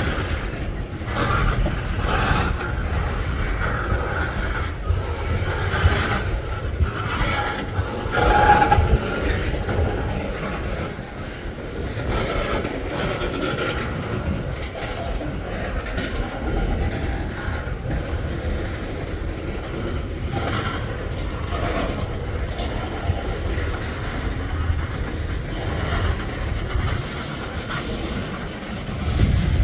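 Freight train cars rolling past on the rails: a steady low rumble with a continual clatter of wheels over rail joints, and some higher squealing from the wheels in the first ten seconds or so.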